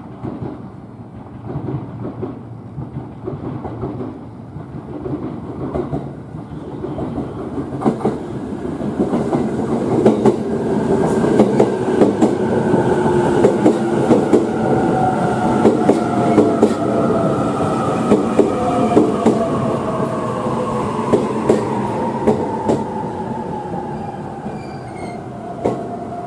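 E657 series electric express train pulling into a platform and braking. Its rumble grows louder as it comes alongside, wheels clicking over rail joints, with a whine that falls steadily in pitch as the train slows toward a stop.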